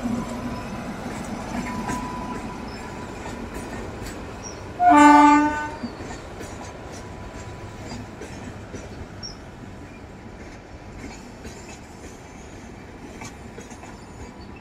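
Passing Indian Railways electric locomotive and train running on the track. About five seconds in comes one short, loud horn blast lasting about a second. After that, quieter running noise with scattered clicks of the wheels over the rails.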